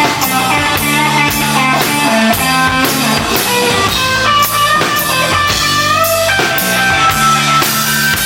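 Live rock band playing an instrumental passage: electric guitar notes with bends over bass and a drum kit keeping a steady beat.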